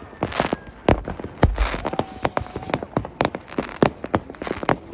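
New Year's Eve fireworks and firecrackers going off: a rapid, irregular string of sharp bangs and cracks, with patches of crackling hiss and a deep boom about a second and a half in.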